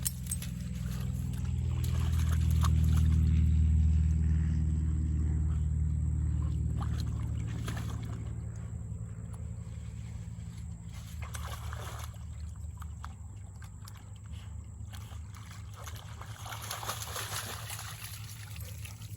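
An engine running, a low, steady hum that swells to its loudest a few seconds in and then slowly fades, as if a vehicle passes by, over the rush of fast-flowing river water.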